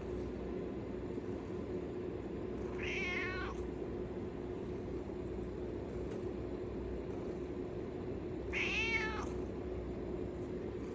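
American Shorthair cat meowing twice, a few seconds apart, asking for treats. A steady low hum runs underneath.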